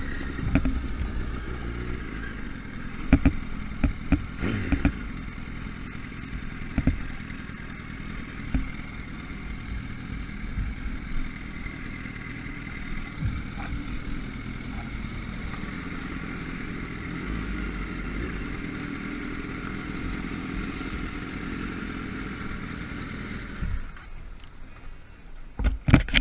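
Motorcycle engine running steadily on the move, with scattered sharp knocks. The engine sound drops away about two seconds before the end, and a few loud knocks follow.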